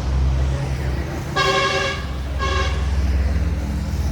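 A vehicle horn beeping twice, a longer beep then a short one, over a steady low engine rumble.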